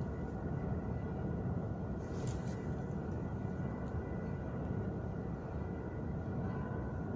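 Steady low rumble of subway station background noise, with faint steady whine tones and a short high hiss about two seconds in.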